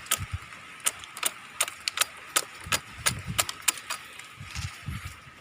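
Sharp, irregular clicks and snaps, about two or three a second, with soft low thumps among them: date palm thorns being cut and gouged away from the frond bases by hand. A faint steady high tone runs behind.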